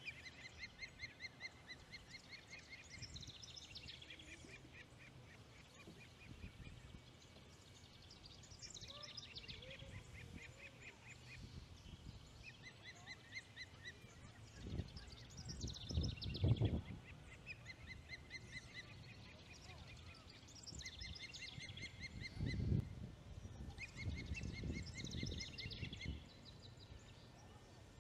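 Ospreys calling: repeated runs of short, high whistled chirps, a new run every few seconds. Low rumbling buffets come in twice, midway and near the end, louder than the calls.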